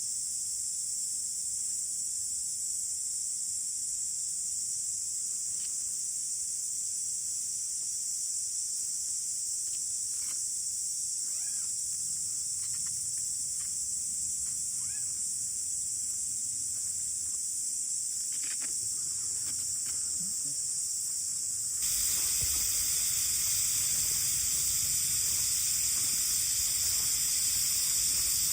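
Steady high-pitched chorus of insects in summer, with a few faint short calls in the middle. About two-thirds of the way through, a louder, broader hiss suddenly joins in.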